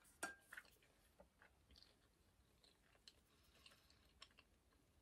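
Faint chewing and small wet mouth clicks from someone eating a puff-pastry roll, a few louder smacks in the first second, otherwise near silence.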